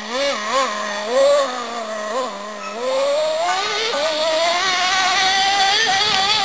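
Nitro engine of a Traxxas T-Maxx RC monster truck revving in a series of short throttle blips. After about three seconds the pitch climbs and holds higher and steadier.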